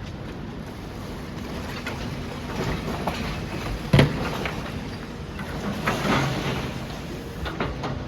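Demolition machinery working: a steady engine drone with clanks and crashes of breaking material, the loudest a sharp bang about four seconds in.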